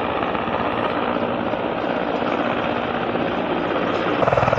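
Russian military helicopter running, a dense rotor and turbine noise with a fast, even chop. About four seconds in it gets suddenly louder and deeper.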